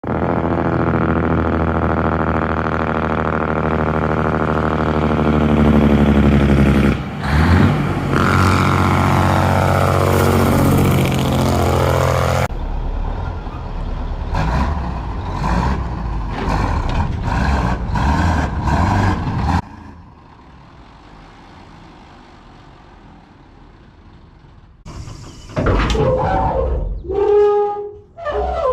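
Heavy truck engine running, its pitch climbing and then gliding up and down as it revs. It is followed by a series of short hissing bursts and a quieter stretch near the end.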